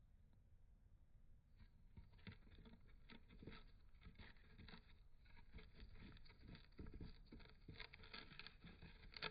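Budgerigar nibbling a cardboard toilet-paper tube with its beak: faint, rapid crackling clicks of tearing paper, starting about a second and a half in.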